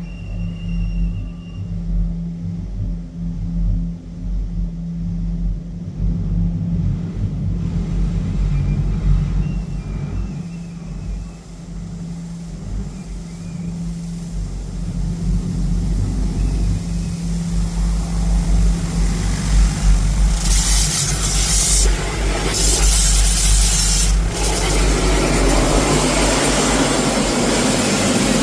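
Istobal M'NEX 22 automatic car wash machine running with a steady low hum. About 20 seconds in, a loud rushing hiss of its jets on the car takes over.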